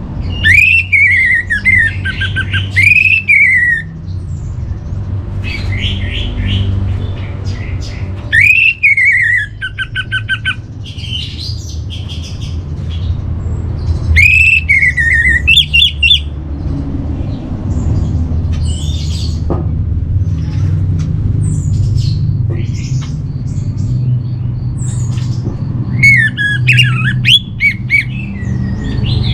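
Orange-headed thrush singing: a loud falling whistled phrase about five times, with shorter varied chirps and notes between them, over a steady low hum.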